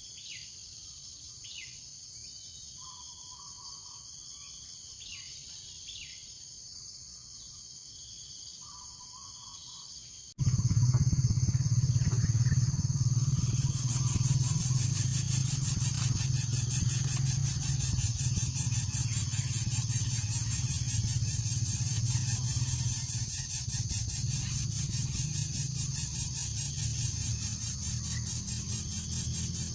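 Outdoor ambience of a steady high insect drone with short, falling bird chirps. About ten seconds in it cuts abruptly to a much louder, steady low motor-like hum with a hiss over it.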